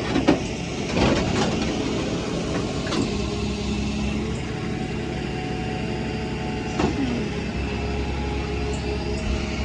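Tow truck's engine running at a steady idle, with a few sharp knocks spread through it.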